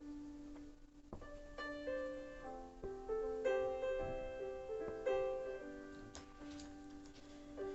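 Background piano music: a slow melody of single sustained notes, each struck and then fading.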